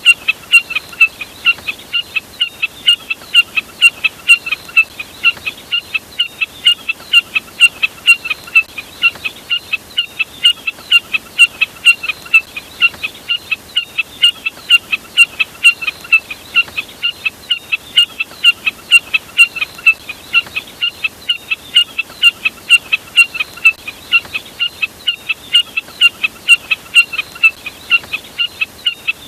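Common jack snipe call: a rapid, steady series of short, sharp notes, about three a second, repeated without a break.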